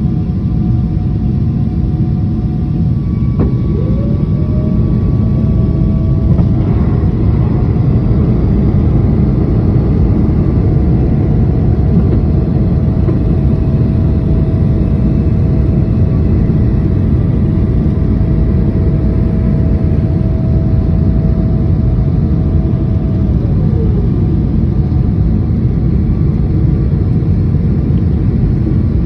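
Steady rumble of a Boeing airliner heard from inside the cabin. A whine rises in pitch about three seconds in, holds steady, and slides down and away about twenty seconds later.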